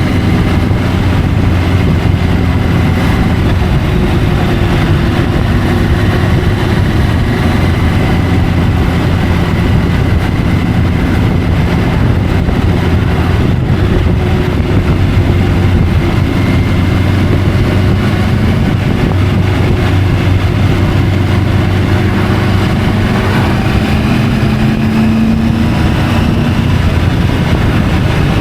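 Triumph Tiger 850 Sport's inline three-cylinder engine running steadily under way, with wind rushing over the bike-mounted microphone. The engine note drifts only slightly, rising a little about 24 seconds in.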